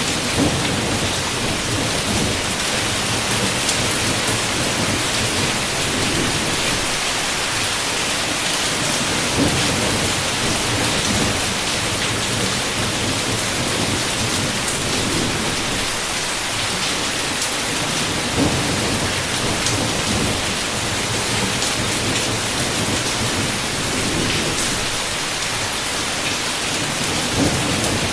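Heavy rain falling steadily on a window, with low thunder rumbling underneath and swelling now and then.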